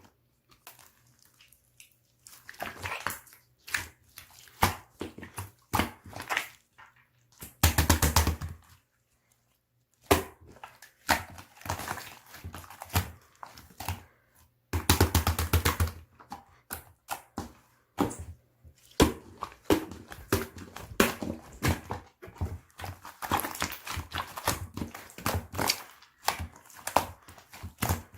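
Slime being squeezed, poked and pressed by hand, giving irregular sticky pops and crackling clicks. It comes in clusters, with two dense runs of rapid popping, one about a quarter of the way in and one about halfway.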